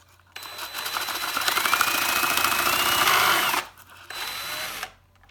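Electric drill driving a LEGO chainsaw's crankshaft and blade, its motor whine rising in pitch as it speeds up over a fast rattle, for about three seconds. It stops, then runs again briefly and more quietly.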